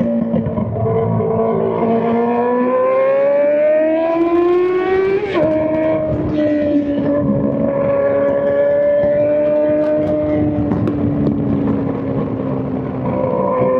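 Straight-piped Honda CBR600 inline-four engine under power: the note climbs steadily for a few seconds, drops sharply about five seconds in as at a gear change, then holds fairly level and eases slightly before climbing again near the end.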